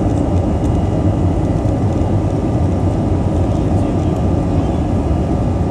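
Airbus A321 jet engines at takeoff power, heard from inside the cabin as a loud, steady low rumble with a faint high whine above it.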